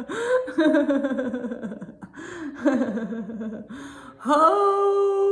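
A woman laughing in falling, pulsing bursts with gasping breaths between them, as a laughter-yoga exercise. Near the end she holds one long, steady 'ho'.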